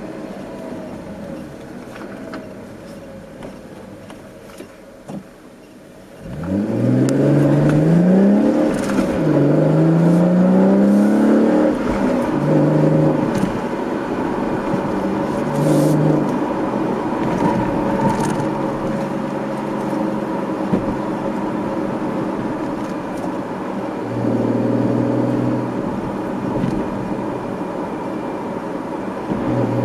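The Camaro's 3.6-litre V6 sounds through a GM axle-back performance exhaust. It runs quietly and fades for the first six seconds, then the car accelerates hard: the engine pitch climbs, drops at a gear change, and climbs again. It then settles into steady cruising, with brief swells of throttle later on.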